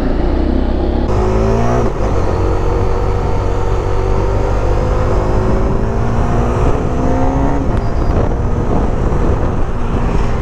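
Motorcycle engine under way, its pitch climbing steadily for several seconds as it accelerates through a gear, then dropping back at a gear change about three quarters of the way through. A heavy low rumble runs underneath.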